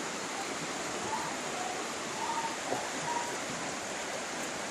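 Steady rush of flowing water from a stream or river.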